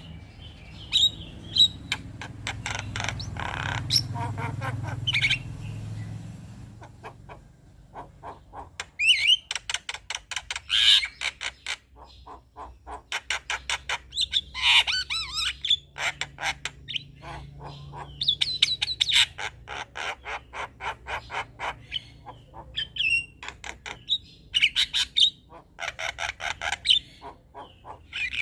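Male Javan myna (jalak kebo) chattering: runs of rapid clicking notes broken by harsh, squawky calls, repeated in phrases throughout.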